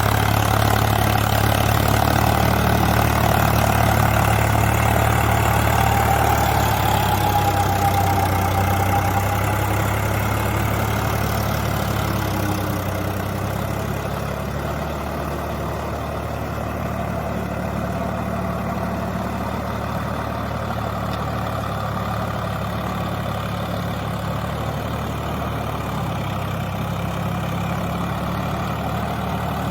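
Swaraj 744 FE tractor's three-cylinder diesel engine running steadily as it ploughs through wet mud, easing off a little about fourteen seconds in.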